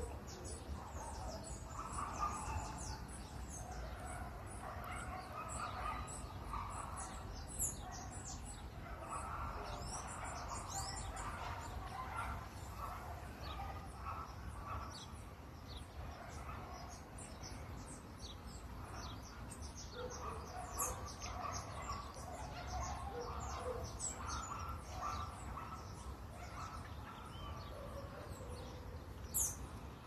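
Small birds chirping and calling, with a regular series of high ticking calls through the first third or so, over a steady low outdoor rumble.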